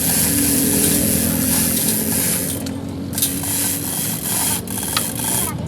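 A loud, steady hiss of spraying, in two long spells: one of about two and a half seconds, a short break, then another of about two seconds.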